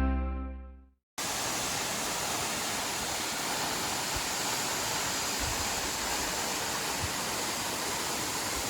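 A guitar chord from the background music rings out and fades away in the first second. Then the steady rush of Marymere Falls cuts in abruptly and holds at an even level.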